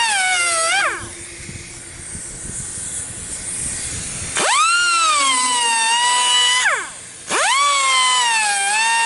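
A high-speed grinder sharpening the teeth of a sawmill band blade: a high whine that dips in pitch over and over as it bears on the metal. About a second in it winds down to a softer hiss. It spins back up a few seconds later, drops out briefly near seven seconds, and comes back.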